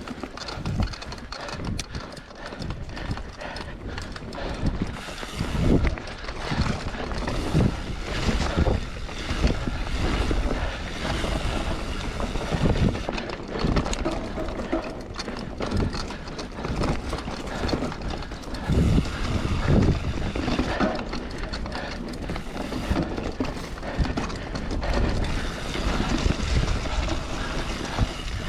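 Mountain bike ridden over a dirt trail: steady tyre rumble broken by frequent irregular rattles and knocks as the bike runs over rough ground.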